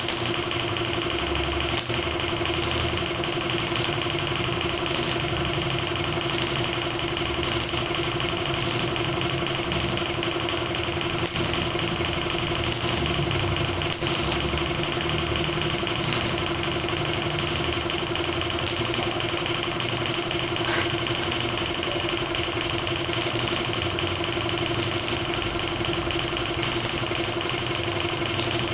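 A steady machine hum holding a constant pitch, with short high hissing bursts recurring about once every second or so.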